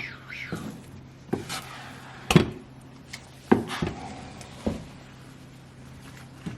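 Knife chopping garlic on a cutting board: about five sharp, irregularly spaced knocks.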